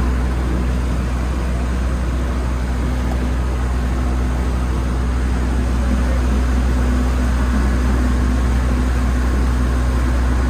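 Boat engine running steadily under way, a constant low drone with a hum, heard on board.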